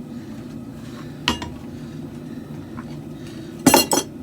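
Steel clinking on steel in a forge: one sharp ringing clink about a second in, then a quick cluster of several louder ringing clanks near the end, over a steady low hum.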